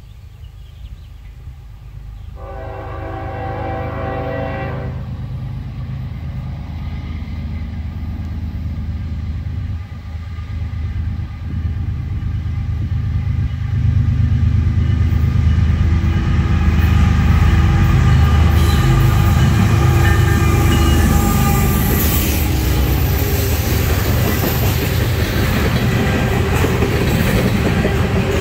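A Norfolk Southern diesel freight train approaching and passing. The locomotive's horn sounds one chord-like blast of about two and a half seconds, a couple of seconds in. The diesel engines then grow louder as the train closes in, and the loaded trash container cars roll past with a steady rumble and rattle near the end.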